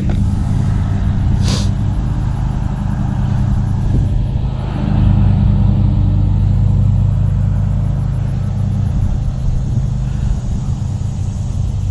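A steady low motor hum with a rumble, holding an even pitch throughout. There is a single sharp click about a second and a half in.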